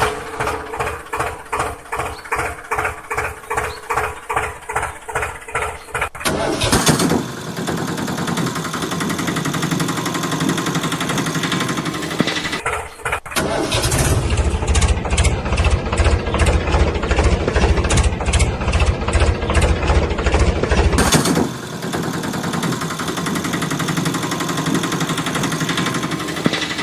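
Engine sound: slow, evenly spaced pulses for about six seconds, then the engine running, with a heavier, fast-chugging stretch in the middle and a steadier run near the end.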